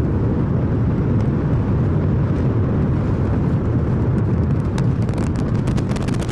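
SpaceX Super Heavy booster's 33 Raptor engines firing during liftoff and climb: a loud, steady, deep rocket rumble. Sharp crackles join it and grow more frequent over the last couple of seconds.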